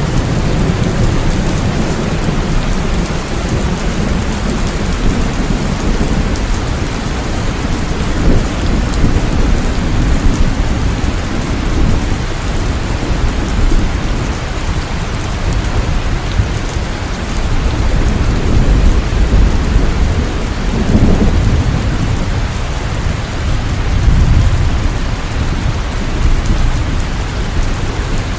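Steady heavy rain falling, with low rolling rumbles of thunder that swell and fade several times.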